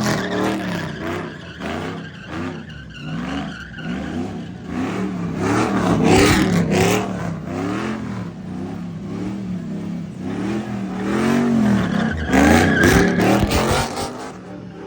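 Car engine revving up and down again and again during a burnout, with tire squeal and louder surges about halfway through and again near the end.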